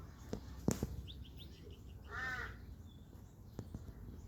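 A corvid gives one drawn-out caw about two seconds in. A few faint high chirps come just before it, and two sharp clicks come early on.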